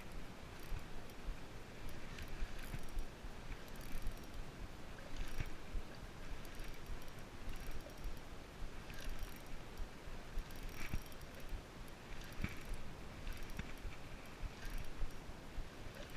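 Fishing reel being cranked on a kayak, a mechanical whirring of gears with small irregular clicks and knocks.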